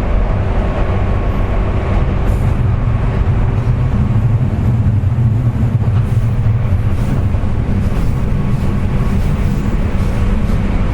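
Running noise of a JR West 201 series electric train at speed: a steady low rumble of wheels on rail. The car gives off the 'jet sound', a whine caused by electrical pitting of its bearings.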